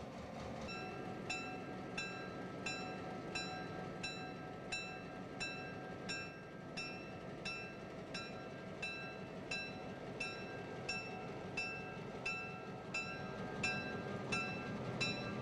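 A bell ringing in steady strokes, about three every two seconds, over a steady hum from railroad equipment.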